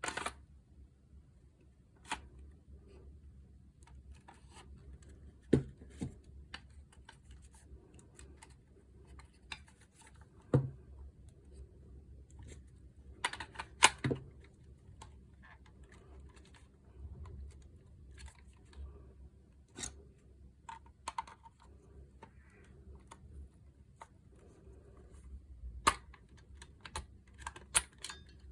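Scattered clicks and light knocks at irregular intervals, a few sharper than the rest, from the disc grinder and its small parts being handled on a bench; the grinder's motor is not running.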